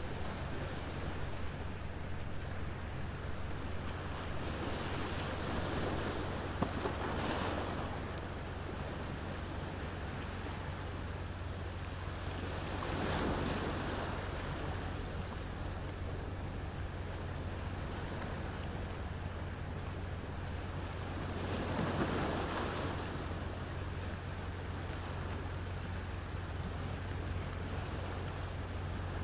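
Ocean waves washing ashore, swelling three times several seconds apart over a steady low rumble of surf. A bonfire crackles once, sharply, about seven seconds in.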